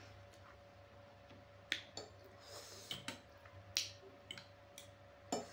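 Close-miked eating of spicy instant ramen noodles: chewing with wet mouth clicks and smacks, about seven sharp clicks spread through, and a brief hiss about halfway.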